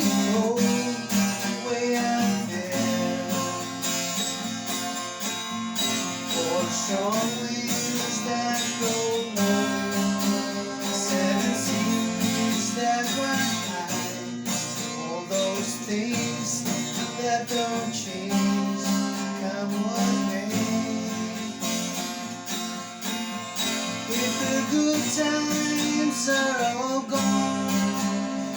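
Acoustic guitar strumming steady chords in an instrumental passage of a country-folk song, with a melody line above it that slides up and down in pitch a few times.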